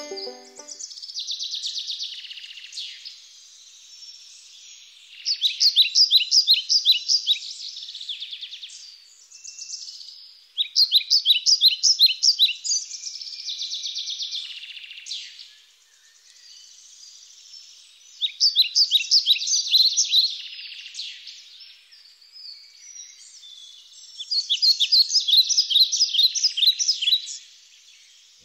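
Songbird singing: a loud, rapid trilled phrase of quick repeated notes comes four times, roughly every six or seven seconds, with softer chirps and twitters between.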